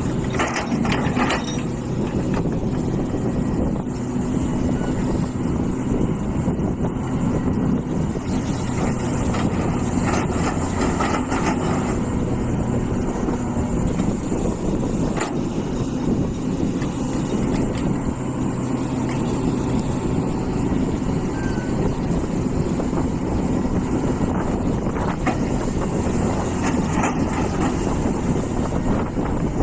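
Hitachi EX450 excavator's diesel engine running steadily, with a few scattered knocks and one sharp clank about halfway through.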